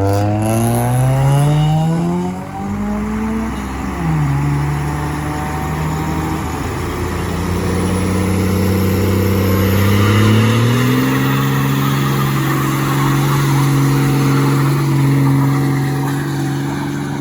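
A car's engine revving hard during a burnout, its tyres spinning and squealing on the pavement. The revs climb in the first two seconds, fall back, then rise again about ten seconds in and are held high under a steady tyre hiss.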